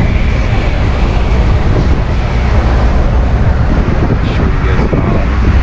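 A ferry's engine running steadily under way, a low rumble, with wind buffeting the microphone.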